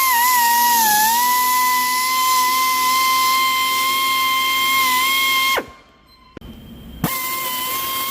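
High-speed power tool, such as a drill or air tool used to ream or buff a tire for a plug patch, running with a steady high-pitched whine. It sags in pitch briefly about a second in, stops about five and a half seconds in, and starts again about a second and a half later.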